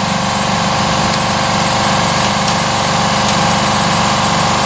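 Air compressor running steadily, a continuous motor drone with a fast even pulsing, feeding the air assist of a Carvera Air desktop CNC mill that is running.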